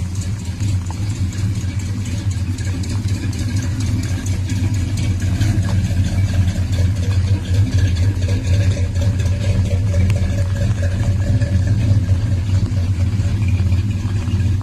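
A truck engine running steadily at an even speed with a deep, pulsing rumble.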